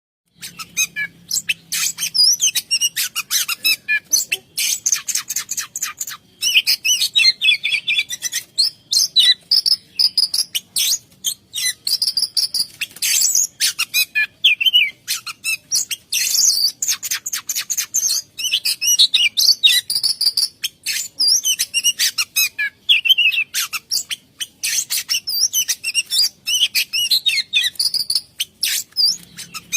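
Oriental magpie-robin (kacer) singing non-stop in full song. It runs a fast, varied string of whistles, warbles and rapid chattering ticks, rolling through phrases mimicked from other birds and insects.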